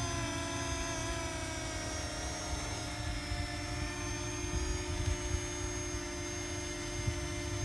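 Parrot Anafi quadcopter's propellers humming steadily in flight, a held multi-tone whine with slight shifts in pitch.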